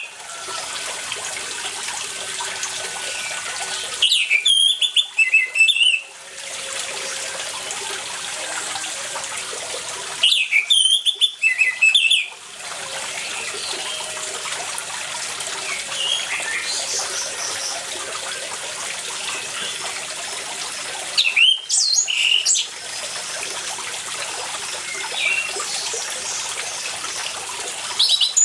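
Orange-headed thrush singing in loud bursts of about two seconds, three times, with a shorter burst near the end, over a steady trickle of running water. Faint chirps sound between the bursts.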